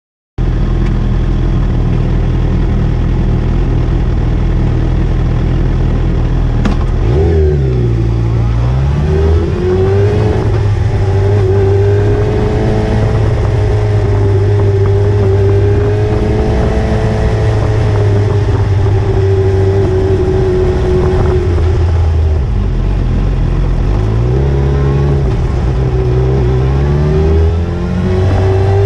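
Motorcycle engine running steadily while riding. Its pitch drops and climbs back up about seven seconds in and again near the end.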